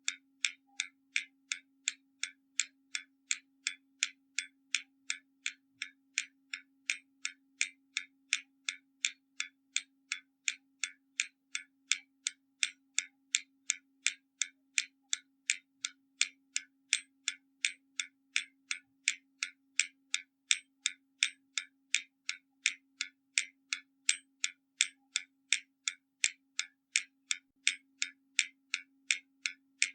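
Hermle mechanical skeleton clock ticking: its escapement making a steady, even run of sharp ticks several times a second.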